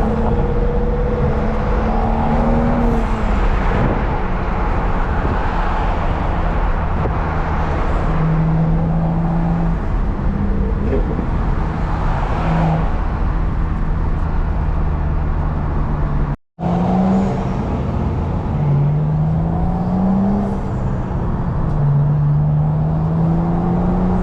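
BMW N55 turbocharged straight-six with a custom-built intake, driving at light throttle. The engine note climbs in short rises with steps between them as it changes gears. The sound cuts out for a moment about two thirds of the way through.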